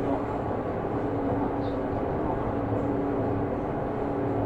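Onboard running sound of a Seibu New 2000 series electric train: a steady rumble of the car under way, with a constant hum held throughout.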